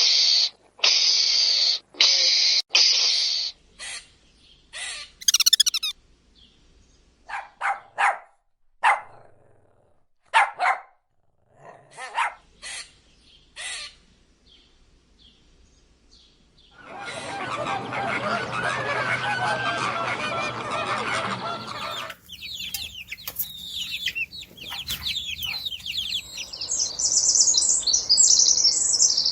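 A run of bird calls, with fowl-like clucks among them: a string of short separate calls, then a dense noisy stretch of many calls, then high rapid chirping near the end.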